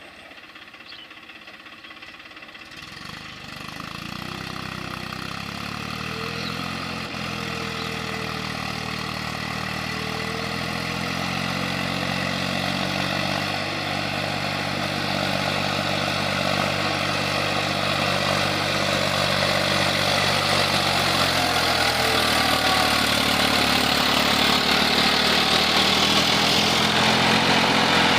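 Eicher DI 480 tractor's diesel engine running, faint at first and then growing steadily louder.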